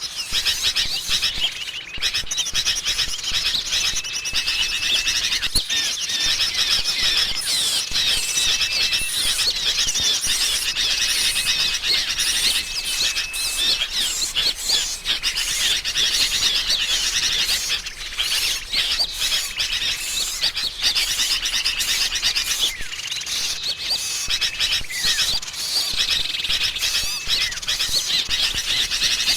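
A bird-trapping lure recording of sooty-headed bulbuls (kutilang) calling noisily, as in an agitated flock, mixed with the chirps of small songbirds. It is a dense, unbroken chatter of high chirps, with a short steady whistle recurring every few seconds.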